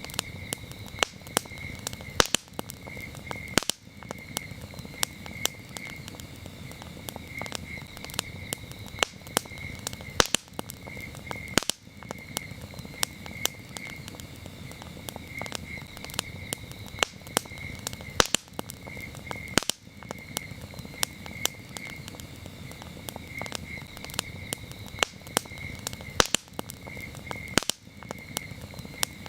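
Campfire burning, with many sharp crackles and pops over a low steady hiss. Crickets chirp throughout in a steady pulsing rhythm.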